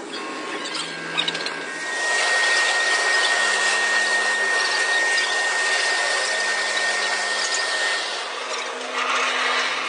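A power tool running steadily with a high whine, starting about two seconds in and easing off near the end.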